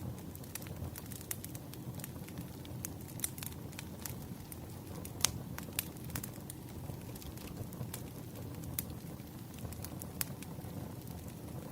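Wood campfire burning with a steady low rush and crackling, with scattered sharp pops and clicks at irregular intervals; the loudest comes about five seconds in.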